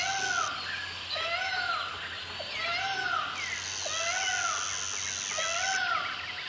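Peacock calling over and over, a short rising-and-falling note about once a second, over a steady high insect buzz that comes and goes.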